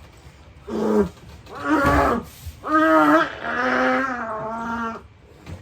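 A person's loud wordless cries: four or five yells in a row, the last held for about a second and a half, mock choking and distress.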